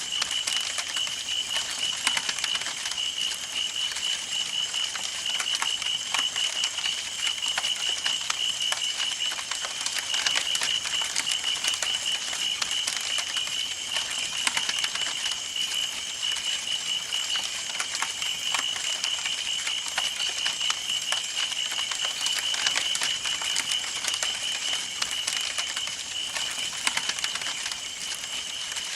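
Campfire burning, with a dense stream of irregular crackles and pops from the burning wood. A steady, rapidly pulsing high trill runs underneath.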